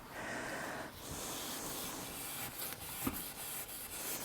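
Very fine 0000 wire wool wet with methylated spirits rubbing over a gilded frame, a steady scratchy hiss with a few faint ticks, as the old water gilding is stripped off.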